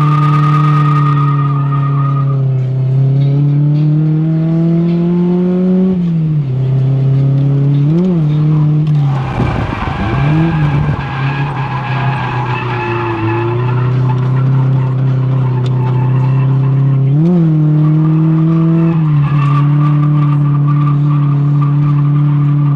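Drift car engine held at high, steady revs with tyre squeal as the car slides, the pitch climbing for a few seconds and then dropping. The engine blips sharply twice and turns rougher and noisier for a moment near the middle.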